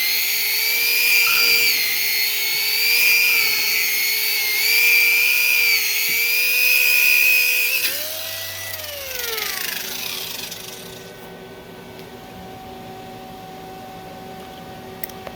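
Handheld power tool, most likely an angle grinder, running with a whine that wavers in pitch as it is worked against the metal. About 8 seconds in it is switched off and spins down, the whine falling in pitch until it fades, leaving a faint steady hum.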